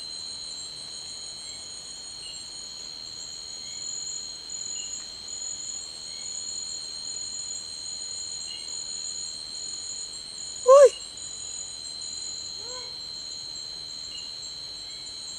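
Night forest insect chorus of steady high-pitched trills, with a loud, short calling cry from an unidentified animal about eleven seconds in and a fainter one a couple of seconds later, the strange call the campers say has been calling to them.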